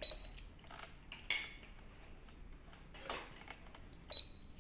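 Toy cash register beeping twice with a short high tone as keys are pressed, once at the start and again near the end, with light plastic clicks and taps in between.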